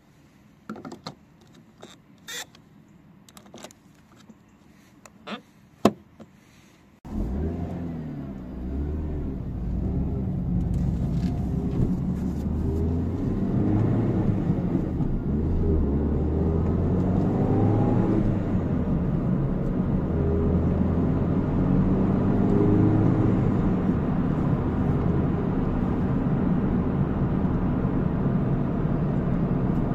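A few sharp clicks, then about seven seconds in the Peugeot 207's turbocharged 1.6 THP four-cylinder engine comes in abruptly and runs on, its pitch rising and falling.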